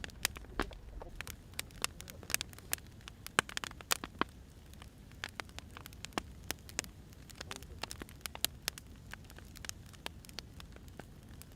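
Burning firewood crackling, with irregular sharp pops and snaps of varying loudness over a soft steady rumble.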